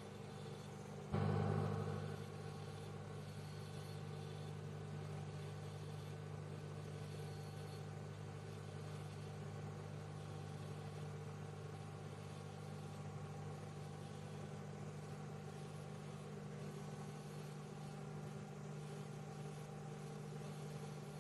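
Microwave oven running with a steady low hum. About a second in, it swells suddenly louder and settles back within a second.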